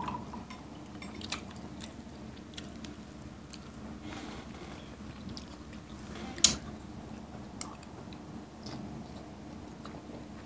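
Quiet mouth sounds of someone chewing rice and sardines, with scattered small clicks and one sharp click about six and a half seconds in.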